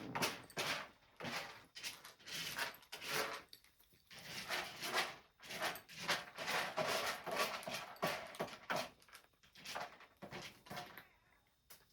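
House cats eating: a string of irregular short crunching and chewing sounds, stopping and starting.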